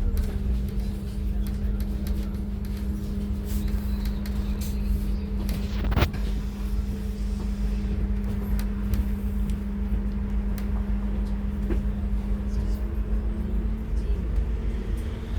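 Scania N280UD CNG double-decker bus engine running steadily under way, heard from the top deck: a low drone with a constant hum, light rattles, and one sharp knock about six seconds in.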